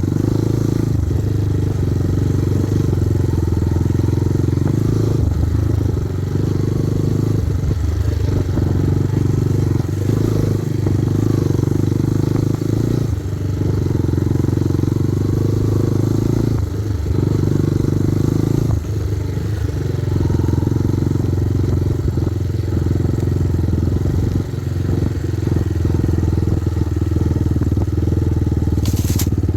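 Kovi Advance 250 motorcycle engine running steadily while riding, with a few brief drops in level.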